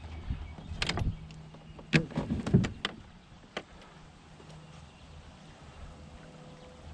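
A cluster of sharp knocks and clatters on a sit-on-top fishing kayak, a few about a second in and a louder group between two and three seconds in, then a single tick.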